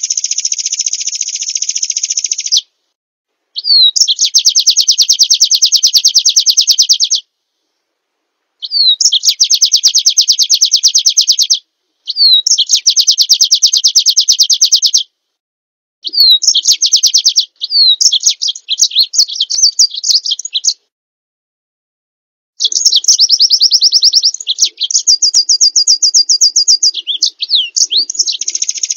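Small songbird singing in about six phrases of very fast, high, buzzy trills, each two to five seconds long and several opening with a quick down-slurred note. The phrases are cut apart by gaps of dead silence, as in an edited bird-song training recording.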